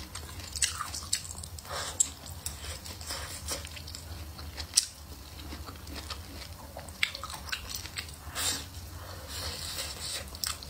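A person chewing food close to the microphone, with irregular sharp clicks.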